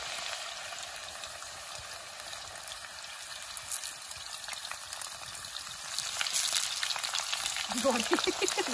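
Sliced yam deep-frying in hot oil in an iron wok: a steady crackling sizzle that grows louder about six seconds in, stirred with a wire skimmer. A voice is heard briefly near the end.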